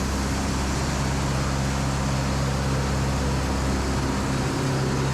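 Sawmill machinery running steadily: an even, constant hum with low droning tones under a wash of mechanical noise.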